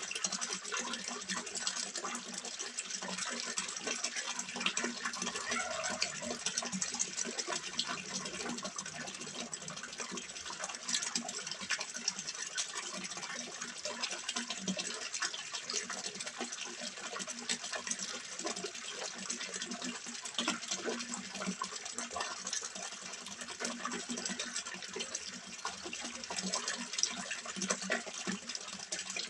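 Water trickling and splashing steadily into a small fish pond, with a constant flickering patter.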